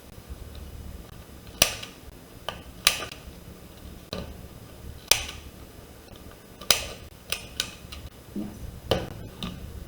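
Sharp taps and clicks of craft tools and card being handled and set down on a work surface, about eight in all, irregularly spaced.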